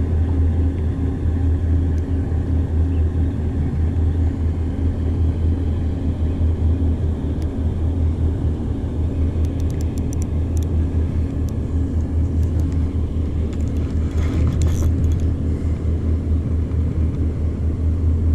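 A steady, low engine hum that does not change throughout. A few light clicks come about ten seconds in, and a short hiss follows a few seconds later.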